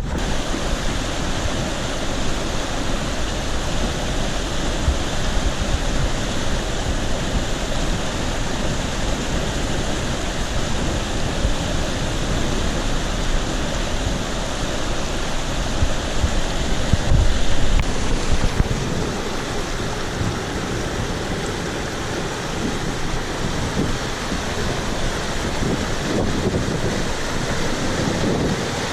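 A stream in monsoon flood, rushing water making a steady, heavy noise.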